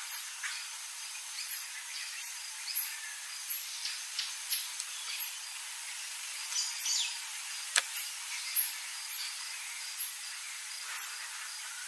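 Very high, short chirps repeating about once or twice a second over a steady hiss, like outdoor bush ambience.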